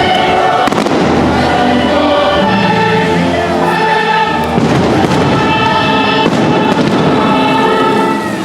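Fireworks bursting several times over a fireworks show's loud orchestral soundtrack with a singing choir.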